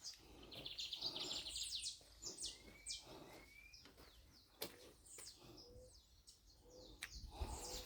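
Birds calling: a quick run of high chirps about half a second in and again near the end, with a couple of short rising whistles a little before the middle, over a low background hum.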